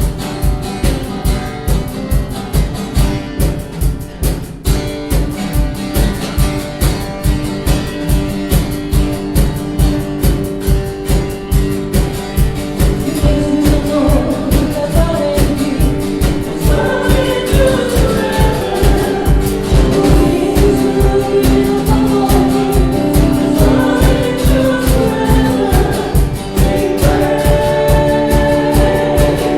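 Worship music: a guitar strummed to a steady beat, with voices singing a song that comes in about halfway through.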